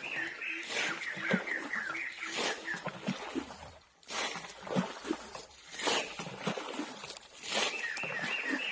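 A fast series of repeated chirping calls from a small animal, about five or six a second, which stops a few seconds in and starts again near the end. Scattered sharp knocks or splashes are heard throughout.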